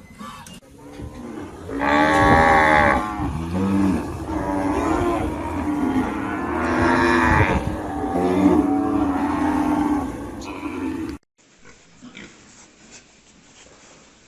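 Cow mooing: two long, loud calls a few seconds apart.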